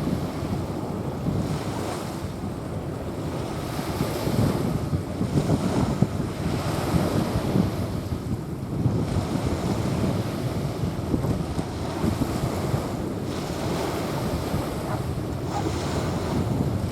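Small waves washing onto a sandy beach, surging every few seconds, with wind buffeting the microphone.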